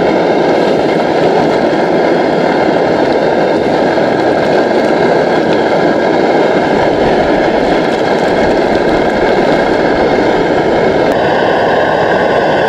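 Chicken thigh strips, just dropped into hot oil in a pan, frying with a loud, steady sizzle.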